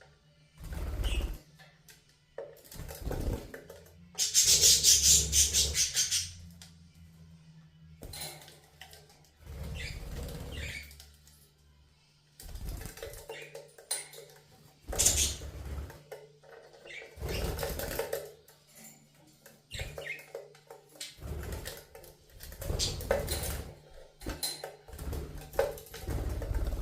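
Budgies bathing: repeated short bursts of wings flapping and splashing in water, the longest and loudest flurry about four seconds in.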